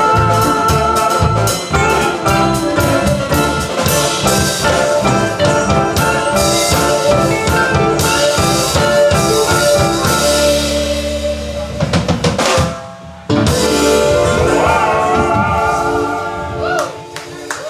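Live band playing an uptempo fiddle tune with drums. About ten seconds in it holds one chord, cuts out briefly, then comes back in, with sliding fiddle-like pitch bends near the end.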